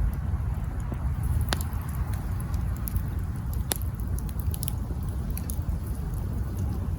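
Wood campfire burning, with scattered small crackles and two louder pops about one and a half and three and a half seconds in, over a low steady rumble.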